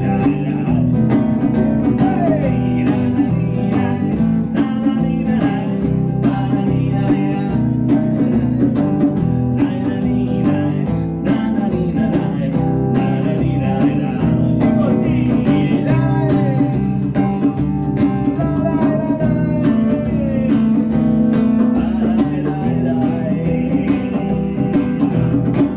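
Live band music: strummed acoustic guitar over a drum kit keeping a steady beat.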